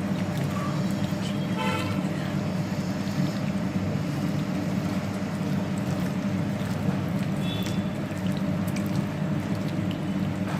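A steady low hum or rumble, with a short horn toot about two seconds in.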